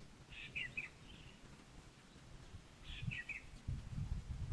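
Faint bird calls: two short chirping phrases about two and a half seconds apart, with low rumbling noise near the end.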